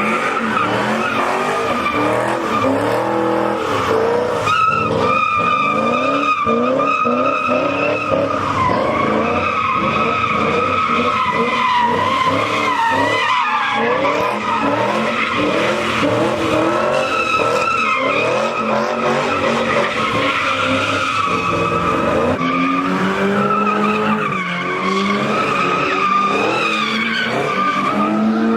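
Car tyres squealing continuously in a burnout or donut, the pitch wavering, over an engine revving up and down.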